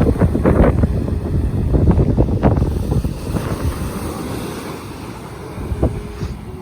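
Wind buffeting the microphone in loud, irregular gusts over the wash of ocean surf, easing somewhat toward the end.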